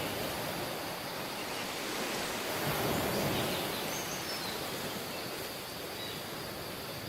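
Surf washing on a tropical beach, a steady hiss with one wave swelling a little louder a few seconds in. A few faint, short, high bird chirps sound about halfway through.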